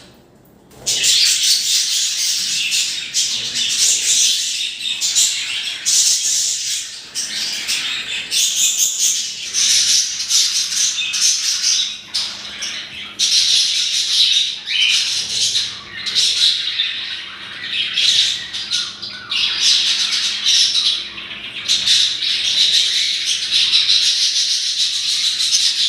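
Birds chattering and squawking in a dense, high-pitched din that starts abruptly about a second in and carries on without letting up.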